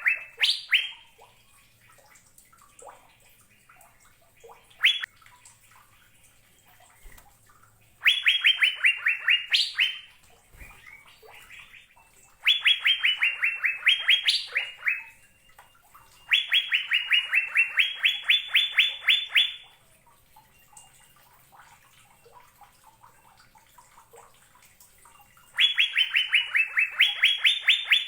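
Cucak biru (Asian fairy-bluebird) singing: loud bursts of rapid repeated notes, about ten a second, that fall and then rise in pitch. Each burst lasts two to three seconds, and several come a few seconds apart, with faint chirps between them.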